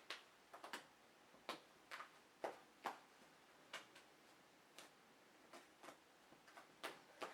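A tarot deck being cut and handled: a quiet run of short, light card clicks and taps at irregular intervals.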